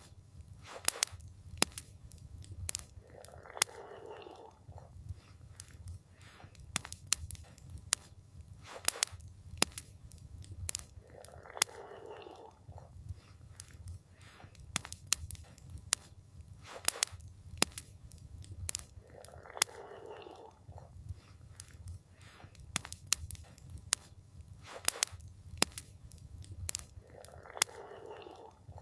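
Campfire crackling: irregular sharp pops and snaps over a steady low rumble, with a soft muffled sound that comes back about every eight seconds.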